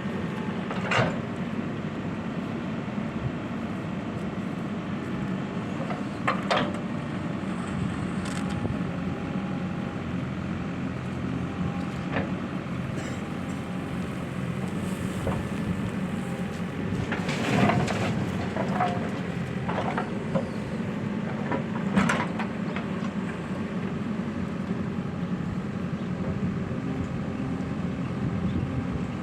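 Heavy diesel engine running steadily under load, with a few short sharp knocks and clanks at irregular intervals.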